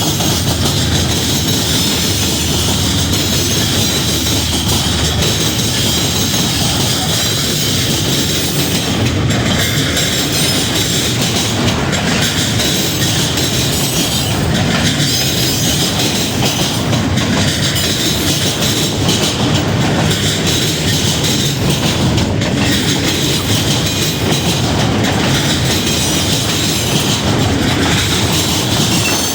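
Freight train cars rolling past at close range with a steady rumble, the wheels clicking over rail joints in groups that recur about every two and a half seconds as each car goes by.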